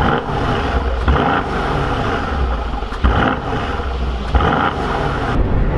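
Mercedes-AMG C63's 4.0-litre twin-turbo V8 running loud and revving, with sudden surges about four times.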